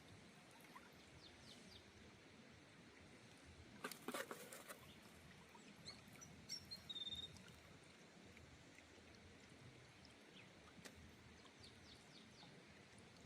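Near silence: faint outdoor ambience with a few short, high chirps, and a brief patch of clicking and rustling about four seconds in.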